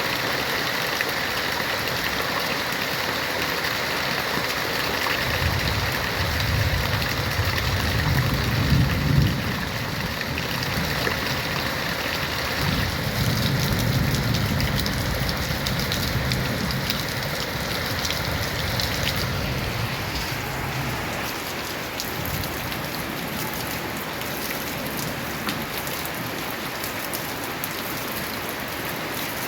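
Steady heavy rain falling on a tin roof. A low rumble rises about five seconds in, peaks around nine seconds, and fades out by about twenty seconds.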